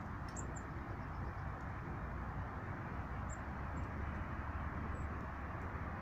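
Steady low rushing outdoor background noise, with a few brief high bird chirps over it: two just after the start, a couple in the middle and one near the end.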